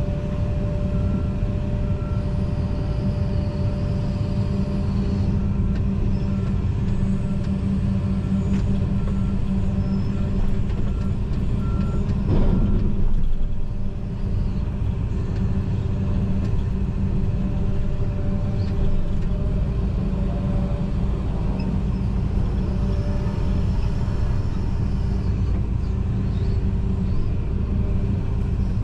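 John Deere 245G excavator's diesel engine and hydraulics running steadily, heard from inside the cab, with a brief surge about twelve seconds in. Faint short beeps repeat through the first half.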